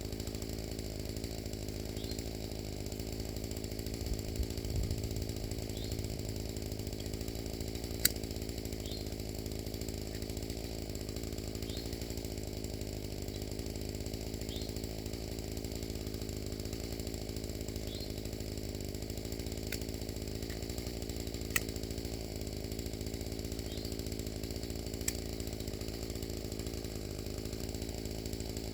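Small gasoline engine running steadily at one constant speed, with a few sharp clicks.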